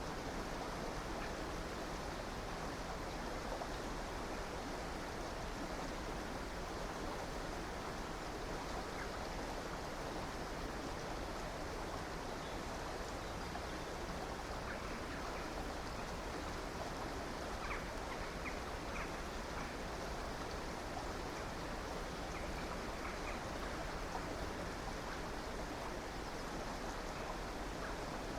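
A river flowing steadily, a constant rush of water. A few faint, brief bird chirps come through in the second half.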